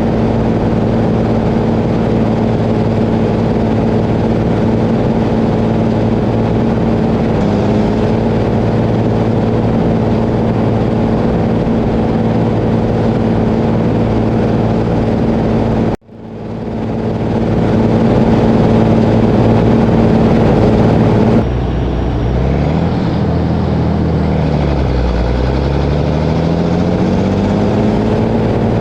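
Rába 250 tractor's diesel engine running steadily. About halfway through, the sound cuts out for an instant and swells back. Later the engine note dips and then climbs again.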